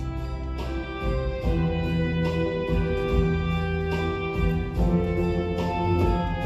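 Ocarina ensemble playing a melody of held notes over an accompaniment with a bass line.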